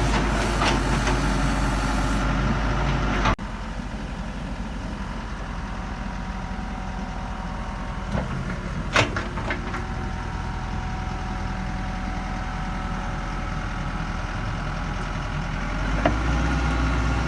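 The 1997 Samsung SE130W-2 wheeled excavator's Cummins diesel engine running steadily, dropping abruptly to a quieter level about three seconds in. A few sharp knocks about nine seconds in, and the engine grows a little louder near the end.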